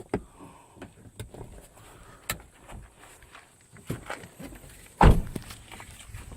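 Scattered clicks and knocks of a car headrest being handled and put back in its seat, then one heavy thud about five seconds in.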